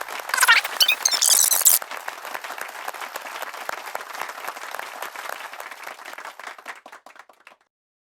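Applause, dense fast clapping with brief high shrill sounds over it in the first two seconds, slowly dying away and stopping about seven and a half seconds in.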